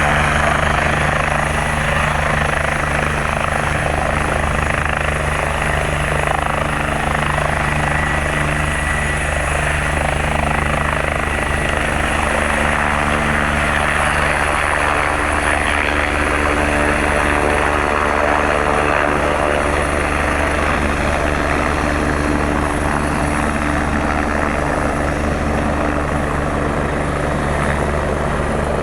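Sécurité Civile EC145 twin-turbine rescue helicopter running loud and steady at close range, the rotor beat and turbine noise continuous, with a thin high whine through roughly the first dozen seconds.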